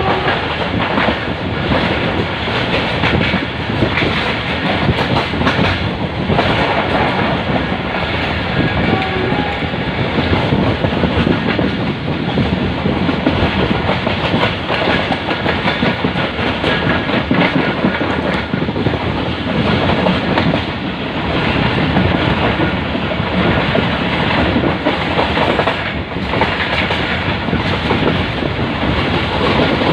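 Pakistan Railways passenger train running along the track: a loud, steady rumble of wheels on rails.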